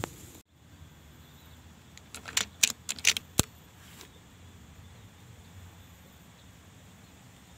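A quick run of about six sharp, jingling clicks, the kind made by handling small metal gear, about two to three and a half seconds in, over a faint steady background hiss.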